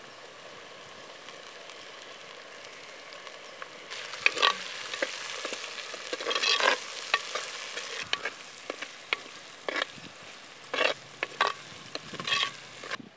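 Onions and green chillies with ginger-garlic paste sizzling as they fry in a clay pot. From about four seconds in, a metal ladle stirs them, scraping and knocking against the pot in short strokes every second or so. The sizzling cuts off just before the end.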